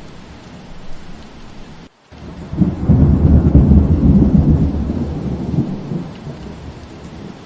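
Steady rain with a roll of thunder: a deep rumble builds about two and a half seconds in, peaks, and fades away over the next few seconds. Just before it the sound drops out for a split second.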